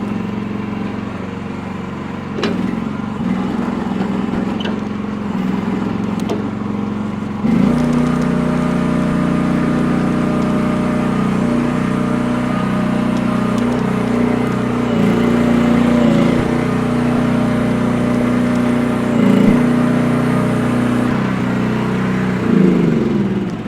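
Chinese mini excavator's engine running steadily. About seven and a half seconds in it gets noticeably louder, and near the end it winds down as it is shut off.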